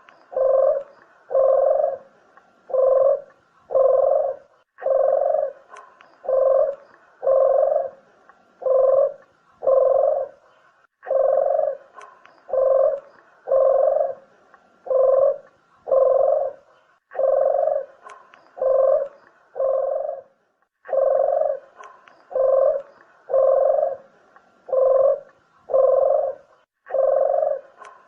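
Puter (Barbary dove) cooing: short low coos about every 0.7 s, in runs of five or six with a brief pause every five or six seconds.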